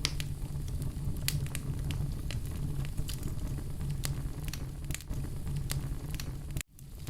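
Wood fire burning in a fireplace: a steady low rumble of flames with scattered sharp crackles and pops. The sound cuts out abruptly for a moment near the end, then comes back.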